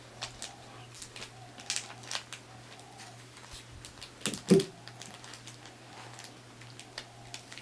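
Light, scattered clicks and rustles of a Twix candy-bar wrapper being handled and opened, with one brief louder sound about halfway through. A steady low hum runs underneath.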